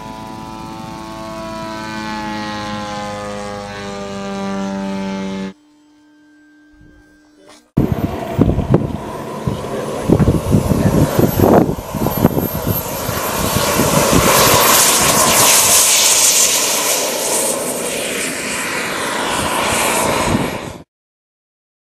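Radio-controlled model aircraft motor and propeller whine, a steady pitched hum that drifts slightly in pitch. After a brief quiet gap it gives way to a louder, rough rushing noise with crackling and a thin high whine, which cuts off suddenly near the end.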